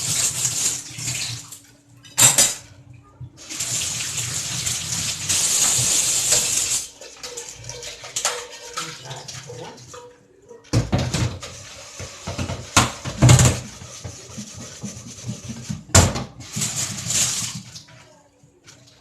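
Kitchen tap running into a sink in two spells, water splashing, then several sharp knocks and clatters near the end.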